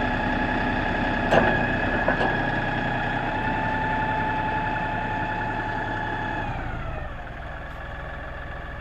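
LS4135 tractor's diesel engine running steadily at a raised idle, with two sharp knocks about a second and a half and two seconds in. Near the end the engine speed drops, its pitch falling to a lower, quieter idle.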